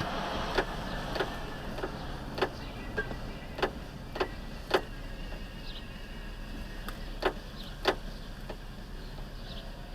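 Steady rumble of a vehicle driving, heard from inside, with about eight to ten sharp clicks or knocks at uneven intervals over the first eight seconds.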